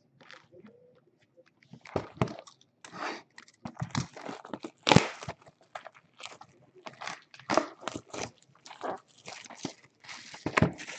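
Crinkling and tearing of trading-card pack wrappers as packs are opened and handled, in irregular bursts of rustling that begin about two seconds in.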